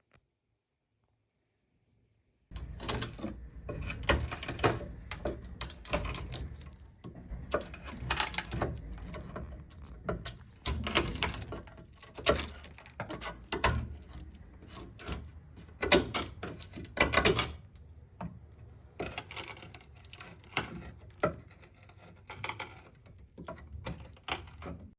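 Hand-tool work on wood, likely a chisel excavating rotten plywood in a boat hull: irregular knocks, taps and scraping strokes over a low steady hum, starting abruptly a couple of seconds in.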